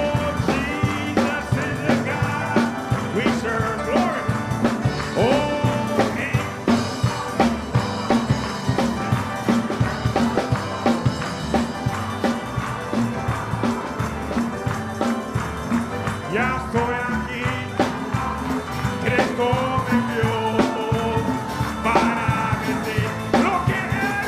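Live church praise music from a band, with a steady, fast beat.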